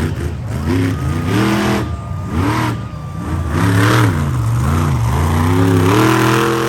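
Monster truck engine revved up and down several times, with a long, higher rev near the end.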